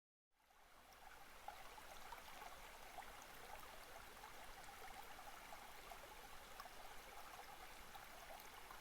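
Faint steady hiss of background noise, fading in just after the start.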